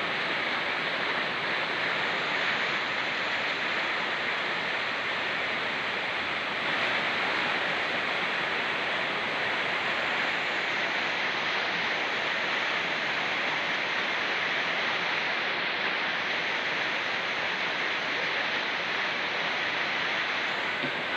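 Steady rush of rain falling on a forested mountain slope, mixed with a fast-flowing mountain stream.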